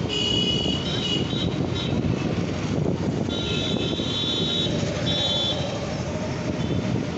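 Road traffic with steady engine and road rumble, and vehicle horns honking several times, the longest blast held for over a second midway.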